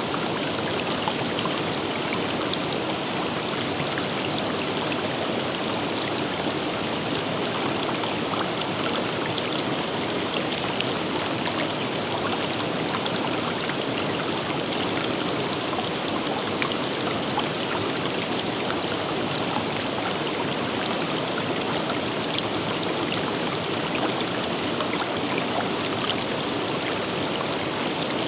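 River water flowing and splashing over rocks: a steady, even rush with many small splashes.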